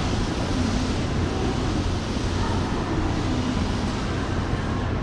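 Electric commuter train running at a station platform: a steady low rumble with no clear start or stop.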